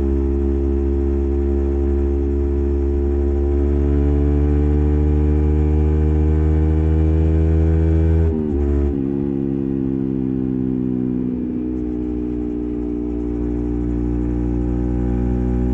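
Yamaha MT15's single-cylinder engine running through an SC Project full-system exhaust with its silencer fitted, pulling steadily with the note rising slowly. About eight seconds in the note dips briefly, then it starts climbing again.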